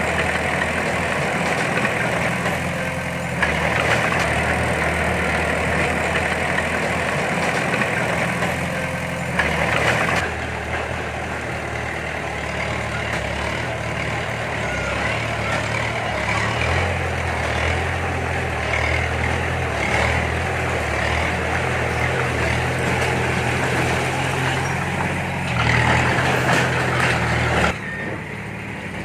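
Heavy diesel engine of earthmoving machinery running under load, its pitch and loudness rising and falling several times as the throttle is worked, with louder surges about a third of the way in and again near the end.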